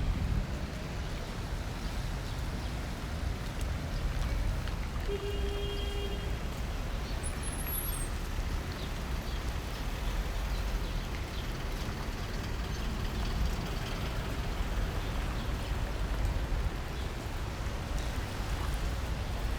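Steady city traffic noise on a rain-wet street, vehicles running past, with a brief steady tone about five seconds in.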